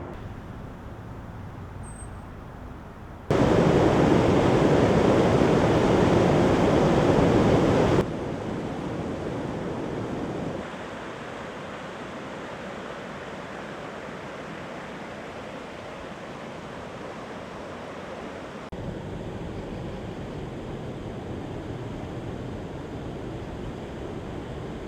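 Rushing floodwater, a steady roar with no clear beat. It comes in several joined recordings that switch abruptly in loudness: quiet at first, loud from about three seconds in to eight, then quieter again, and a little louder from about nineteen seconds in.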